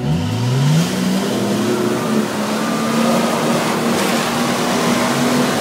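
Jeep Cherokee engine revving up in the first second and then held at high revs as it pushes through a flooded mud ditch, with water and mud splashing around it.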